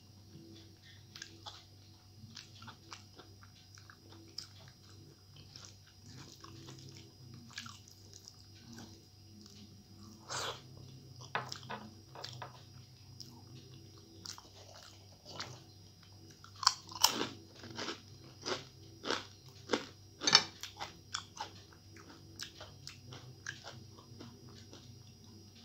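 A person chewing and crunching food close to the microphone: soft mouth sounds, then a run of loud crisp crunches in the second half.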